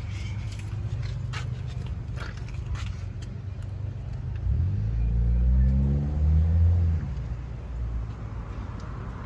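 A car engine over a steady low rumble, speeding up with a rising pitch from about four and a half seconds in and then easing off about two seconds later, with a few sharp clicks in the first three seconds.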